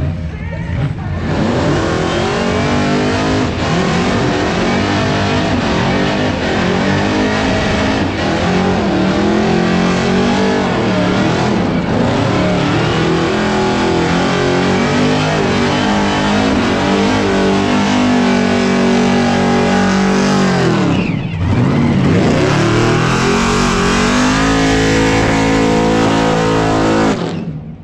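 A burnout car's engine revving hard while its tyres spin and smoke, the pitch wavering as the throttle is worked. About three-quarters of the way through the revs drop off sharply, then climb back, and they fall away again near the end.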